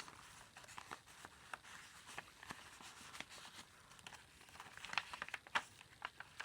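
Faint rustling and light taps of paper and card being handled as the pages and tucked-in papers of a handmade junk journal are turned and pulled out, with a couple of sharper clicks about five seconds in.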